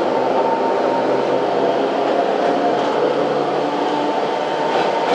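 Yokkaichi Asunarou Railway 762 mm narrow-gauge train running between stations, heard from inside the car: a steady running rumble with several held tones.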